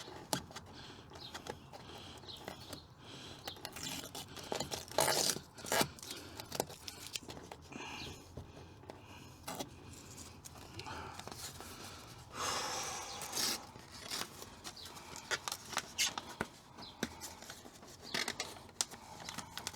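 Handling noises from fitting sound-deadening insulation sheet: scattered rustles, scrapes and small knocks, with a longer scraping rustle about twelve seconds in.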